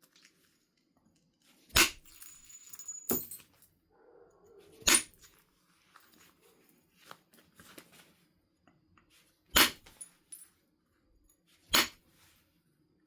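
Flintknapping percussion: a hammer striking a large stone nodule, driving off flakes. Five sharp cracks come at uneven intervals, the last two after a longer pause.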